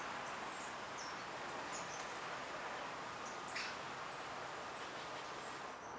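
Faint outdoor ambience: a steady background hiss with scattered short, high bird chirps throughout.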